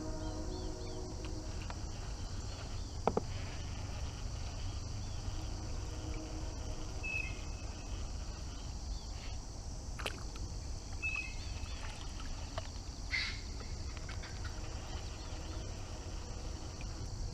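Outdoor ambience at a pond: a steady high insect chorus over a low rumble, with a couple of sharp clicks and two brief high chirps in the middle.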